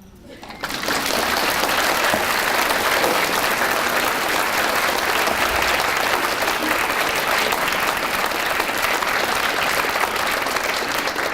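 Audience applauding, breaking out about a second in and holding as a steady, dense clapping.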